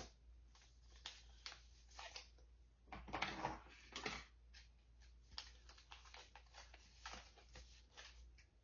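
Faint, scattered rustles and light taps of small objects being handled, a little busier about three to four seconds in, over a steady low hum.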